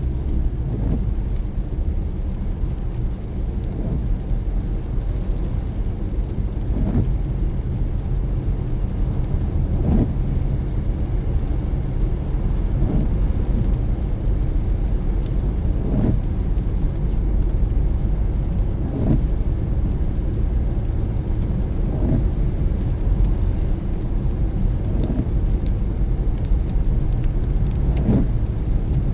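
Car driving in the rain: steady road and engine rumble, with a short regular sweep about every three seconds from the windshield wipers.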